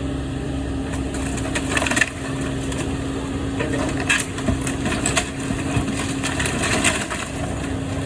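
Wood cracking and splintering in three bursts as a wall of the building is torn down, over a steady low engine hum.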